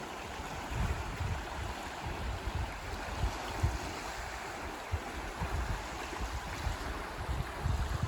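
Steady rushing of flowing stream water, with gusts of wind buffeting the microphone in low, uneven bumps.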